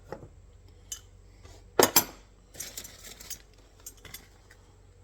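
Steel trap parts being handled and set down on a workbench: two loud metal clanks just before two seconds in, then a short run of light rattling clinks, with a few single clicks around them.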